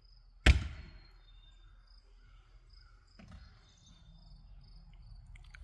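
An axe splitting firewood: one sharp, loud strike about half a second in that rings briefly, then a softer thump about three seconds later. Crickets chirp steadily throughout.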